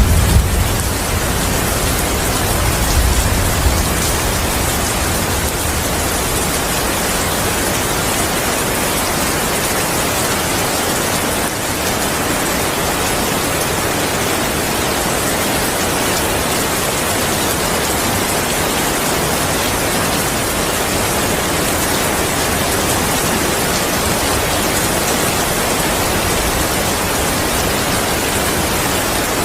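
Steady heavy rain falling, an even hiss. A low thunder rumble dies away over the first few seconds.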